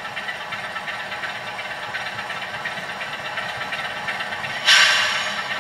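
DCC sound of a model Class 47 diesel locomotive: the engine idling steadily through the model's small speaker, with a sudden loud burst of air hiss near the end that fades away over about a second.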